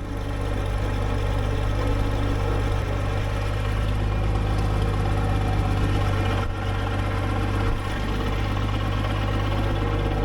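Farm tractor's diesel engine running steadily under way, with a brief dip in level about six and a half seconds in.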